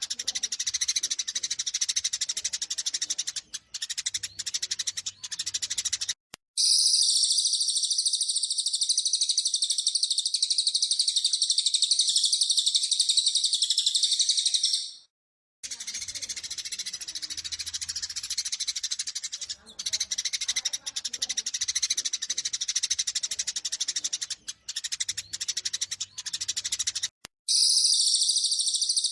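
Eurasian tree sparrows chirping rapidly and agitatedly, the excited calls of fighting sparrows, in segments that alternate with stretches of a louder, dense, continuous high-pitched trilling. The segments switch with abrupt cuts.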